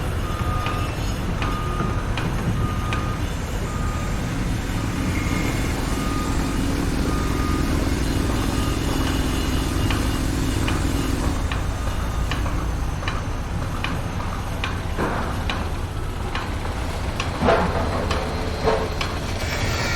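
Heavy construction vehicle running with a steady low engine rumble while its reversing alarm beeps in a regular series; the beeping stops about eight seconds in. Scattered metallic knocks follow, with two louder bangs near the end.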